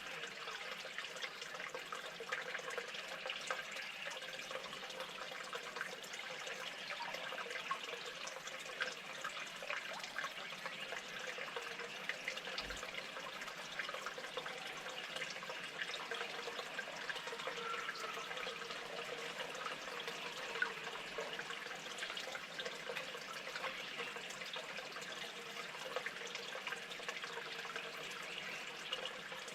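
Steady trickle of running water with many small clicks.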